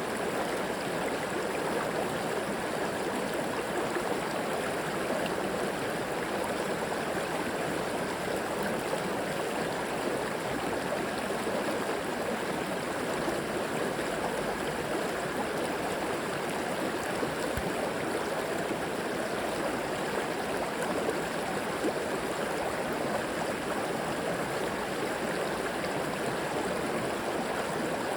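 River water flowing over rocks, a steady rushing and gurgling with no breaks.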